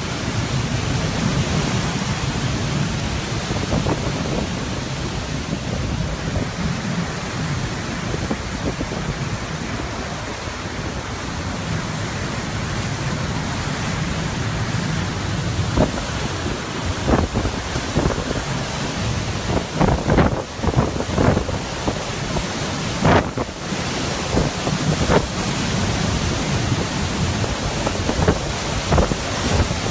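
Hurricane wind gusting hard against the microphone over a steady rush of rain and water. From about halfway through, a string of sharp knocks or cracks stands out above it.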